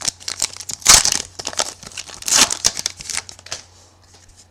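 Crinkling and tearing of a trading-card pack wrapper as it is ripped open by hand, in a run of sharp crackles, loudest about a second in and again a little past the middle, dying away near the end.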